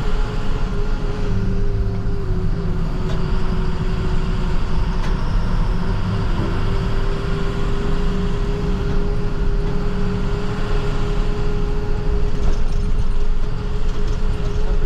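Plow truck driving, heard from inside the cab: a steady engine and road rumble with a constant whine over it.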